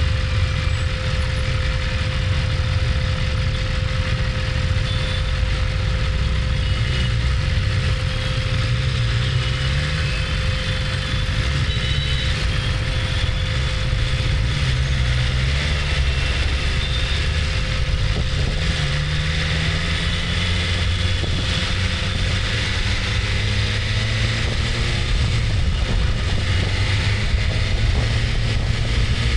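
BMW S1000RR's inline-four engine running at low to moderate revs, its pitch drifting up and down with the throttle, over steady wind and road noise.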